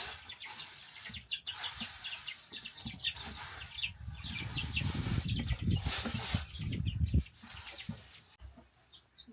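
Chickens clucking, with a low rumbling noise underneath that stops about seven seconds in.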